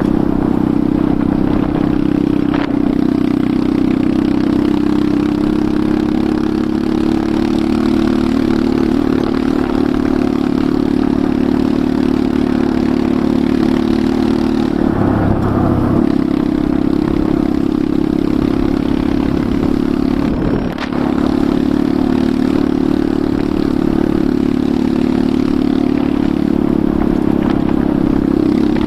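Enduro motorcycle engine running steadily at an even pitch. There is a brief change in tone about halfway through and a short dip in level about two-thirds of the way in.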